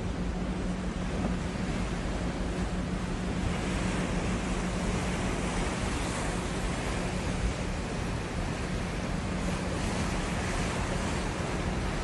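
Sea water washing and rushing with wind buffeting the microphone, a steady even sound, over a constant low hum.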